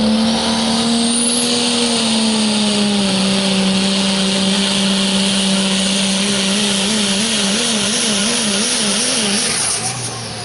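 A pro stock diesel pickup's turbocharged engine runs hard under load, pulling the sled, with a loud high hiss and a thin whistle rising in the first second. Late in the pull the engine's pitch wobbles up and down about twice a second, then the sound drops away near the end as the pull finishes.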